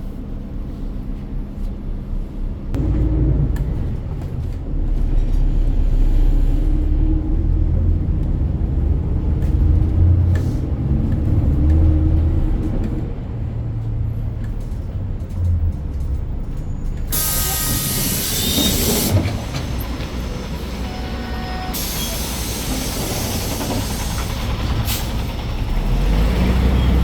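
City bus running, with a heavy low rumble and a whine rising slowly as it pulls away. About 17 seconds in, and again a few seconds later, come loud hisses of compressed air from the bus's air system.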